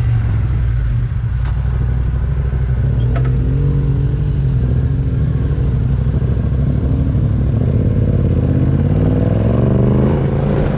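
Yamaha Ténéré 700's parallel-twin engine running under way, its pitch rising steadily through the second half as the bike accelerates.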